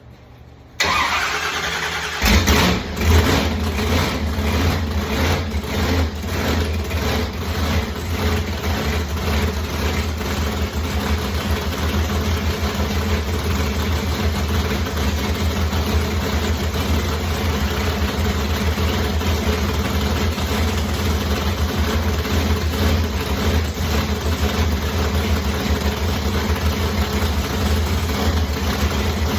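Supercharged engine being cranked on the starter, catching about two seconds in, then idling with a steady, lumpy pulse.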